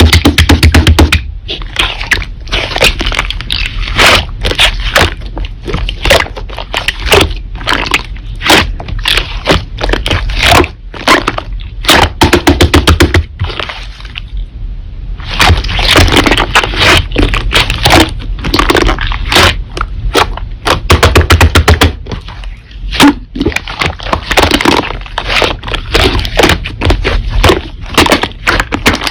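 Slime being squeezed, pressed and stretched by hand, with many sharp pops and crackles of air pockets bursting, pausing briefly about halfway through.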